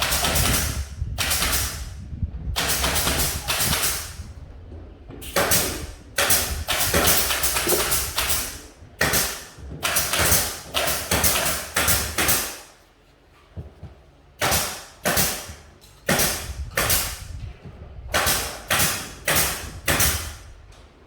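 Repeated rough scraping or rasping strokes, each starting sharply and fading over about half a second, in runs at about two a second with short pauses between runs.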